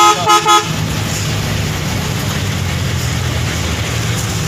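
A vehicle horn gives three quick toots right at the start, over a steady engine and road hum that carries on afterwards.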